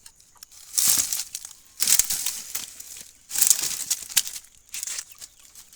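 Dry branches and brush crackling and scraping in several bursts as pieces of firewood are pulled out of a pile.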